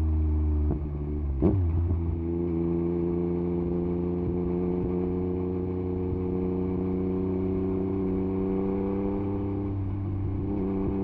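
Yamaha MT-09 SP's 890 cc inline-three engine running through an Akrapovič exhaust with the dB killer removed, holding a steady note under riding load. There is a short sharp crack about a second and a half in, and the note changes again near the end.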